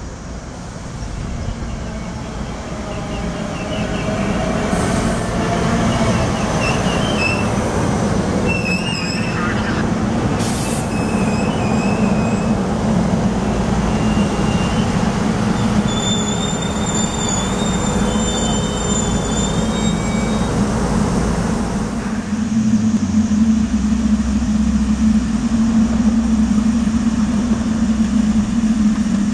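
SEPTA push-pull commuter train rolling into the station, a growing rumble of wheels on rail with high-pitched wheel and brake squeals from about five seconds in until about twenty seconds in. Near three-quarters of the way through, the squealing stops and a steady low hum from the standing train takes over.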